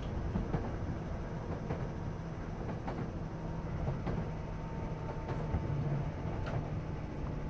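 JR East 211 series 3000-subseries electric train running, heard from inside the passenger car: a steady low rumble with a faint hum and a few scattered clicks.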